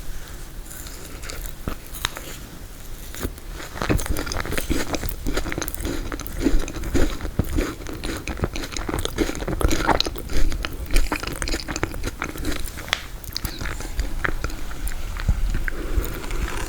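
Close-miked eating of frozen tiramisu: biting and chewing the frozen cake, with a dense run of small sharp clicks and mouth noises.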